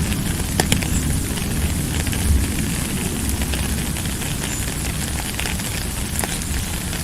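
Steady rain: a dense hiss of falling drops over a low rumble, with scattered sharp ticks of near drops.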